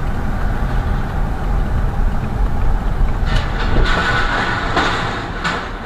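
A vehicle moving, a steady low rumble of engine and road noise, with a few sharp knocks and a louder rush of noise in the second half.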